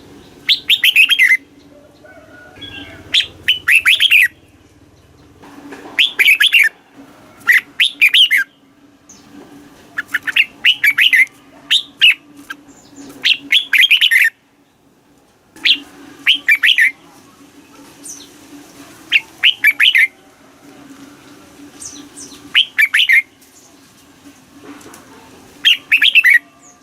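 Red-whiskered bulbul singing: short, quick warbled phrases of a few notes each, repeated every two to three seconds, over a faint steady low hum.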